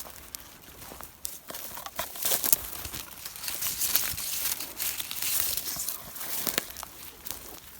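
Dry sticks and reed stalks being handled and broken for kindling: crinkling rustles with many sharp cracks and snaps.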